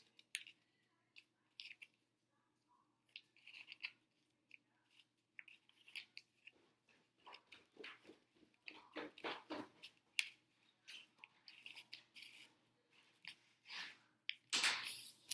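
A sheet of paper being folded and creased by hand: a series of short, crisp rustles and scrapes with quiet gaps between them, coming closer together and louder in the second half.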